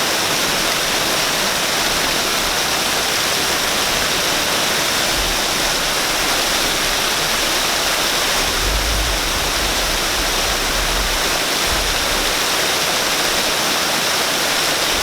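Waterfall: a steady, even rush of falling water, with a low rumble that swells and fades.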